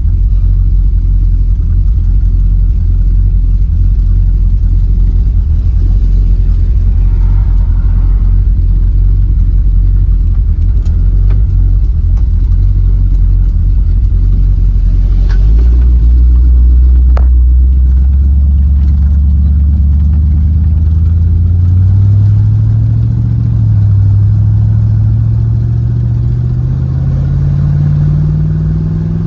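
Chevrolet 350 V8 of a 1929 Ford Model A pickup hot rod, heard from inside the cab: a steady low rumble for about fifteen seconds, then the engine note rises as the truck accelerates, dips briefly a little past twenty seconds and climbs again.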